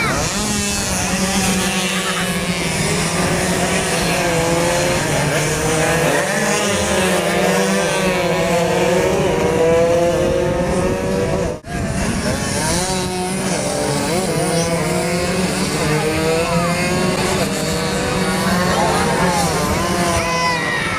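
Two-stroke underbone race motorcycles at full race pace, engines screaming up and down in pitch as they rev through the gears, with a steady low drone underneath. The sound cuts out for an instant about two-thirds of the way through.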